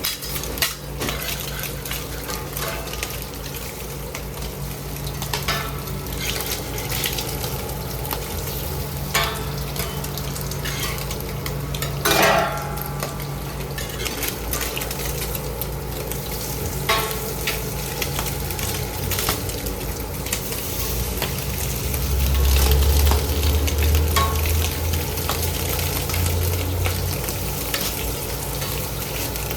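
Food frying and sizzling on a hot griddle, with scattered clicks and scrapes of metal utensils. A low steady hum runs beneath and grows louder for a few seconds past the middle.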